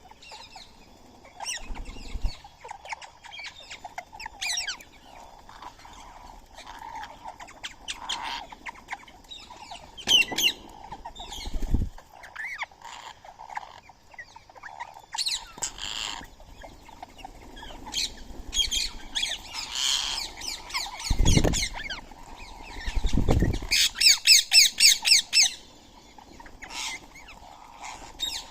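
Birds calling and squawking, among them Indian ringneck parakeets: short chirps and squawks throughout, with a fast run of loud, harsh repeated calls near the end. Four short low thumps come between the calls.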